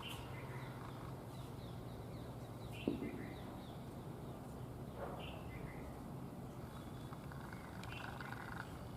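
Small birds chirping in short, high calls every second or two over a steady low background hum, with a single dull knock about three seconds in.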